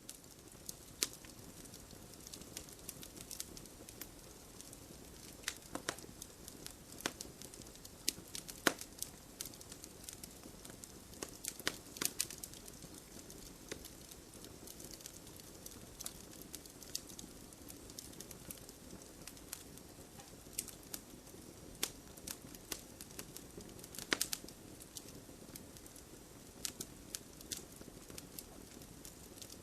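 Campfire crackling: irregular sharp pops and snaps over a steady low hiss of the burning fire.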